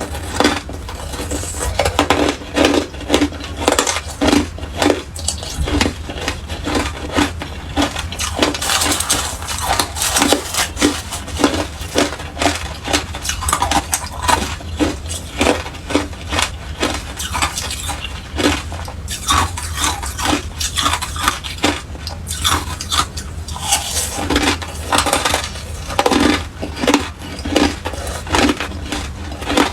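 Hard clear ice being bitten and chewed: a continuous run of sharp, irregular crunches and cracks, several a second.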